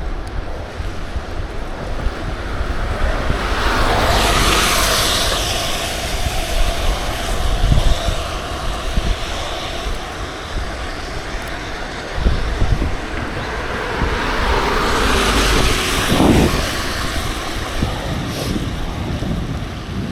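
Wind buffeting the microphone of a camera on a moving bicycle, a constant low rumble under a broad hiss. Two louder rushing swells, about four seconds in and again about fifteen seconds in, are traffic passing close by.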